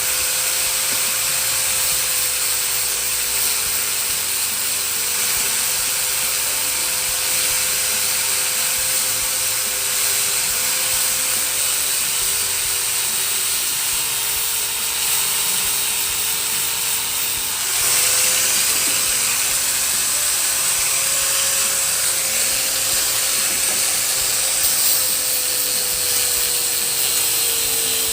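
A steady mechanical whine with a strong hiss, drifting slightly in pitch, that steps up in pitch and level about 18 seconds in.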